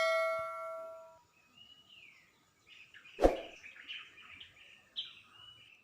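A metallic clang ringing out and fading away over about a second, followed by faint bird chirps and a single sharp knock about three seconds in.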